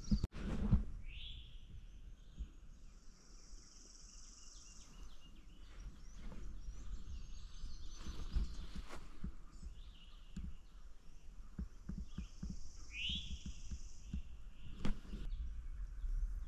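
Wild birds calling in woodland: one short swooping call about a second in and again near 13 seconds, and a long high buzzy song twice. Under them runs a low rumble, with a few soft knocks.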